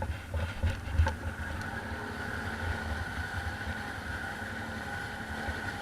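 ATV engine running steadily with a high whine over its rumble, with a few knocks in the first second.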